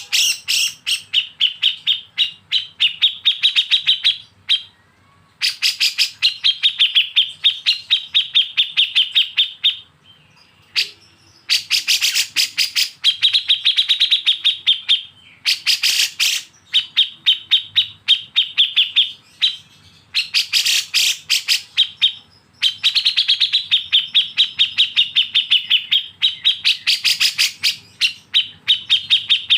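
Songbird besetan: bursts of rapid, evenly repeated sharp chattering notes, roughly ten a second, each burst running several seconds with brief pauses between.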